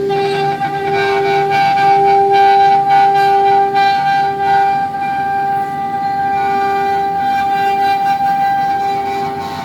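5-axis CNC router running: a steady high-pitched whine, with a lower tone that starts and stops in short stretches of about a second.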